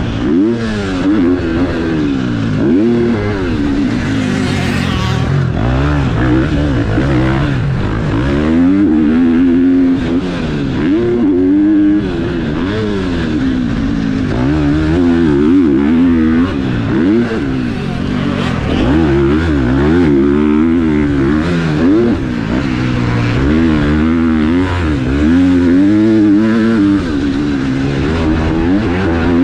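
KTM SX-F four-stroke single-cylinder motocross engine ridden hard on a dirt track: the revs climb and drop over and over with throttle and gear changes, every second or two.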